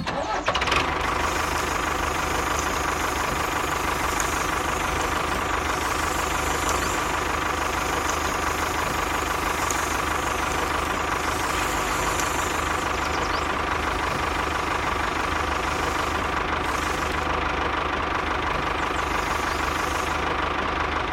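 A small motor running steadily with a constant whine, typical of the electric drive of a DIY miniature construction machine.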